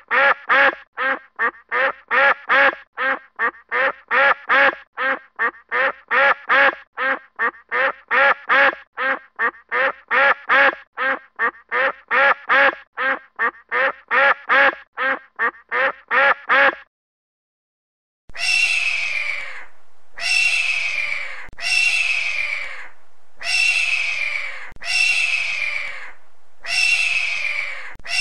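A duck quacking over and over in quick runs, two to three quacks a second, which stops after about 17 seconds. After a short silence, an eagle's shrill calls follow, each falling in pitch and repeating about once a second.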